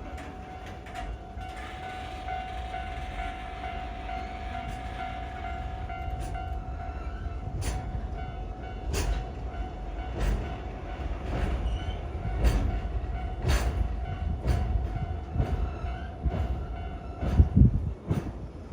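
A train passing on the line, its wheels clacking over rail joints in a run of sharp beats that come faster and louder, the loudest about a second before the end. A steady high-pitched tone sounds alongside and stops shortly before the end.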